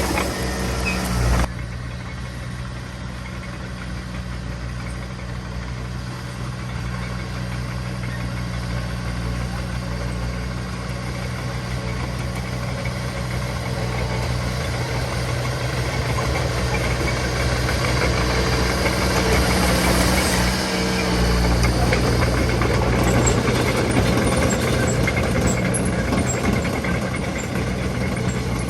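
Diesel engine of heavy earthmoving machinery running steadily. It changes abruptly about a second and a half in, then grows gradually louder.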